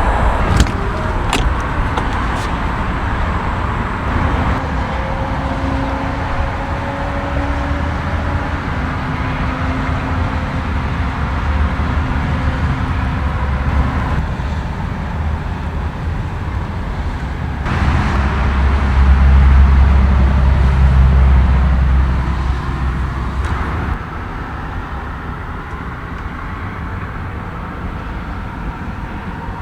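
Aston Martin DBX S's 4.0-litre twin-turbo V8 running, with a few sharp clicks in the first seconds. Past the middle the engine sound swells deeper and louder for about four seconds, then drops back.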